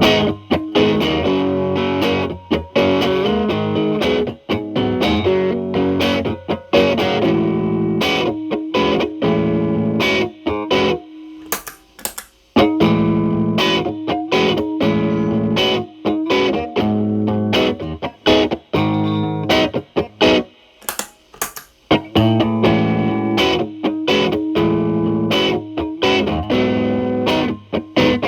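Telecaster with single-coil Alnico pickups played through an early-version MI Audio Crunch Box distortion pedal, gain around 8 to 9 and tone at maximum, into the clean channel of a Marshall Valvestate amp: distorted riffs and chords, with brief stops about 11 seconds in and again around 20 seconds.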